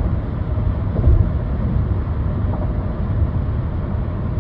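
Steady low road and tyre rumble inside the cabin of a 2008 Lexus ES350 cruising at highway speed, with a brief louder thump about a second in.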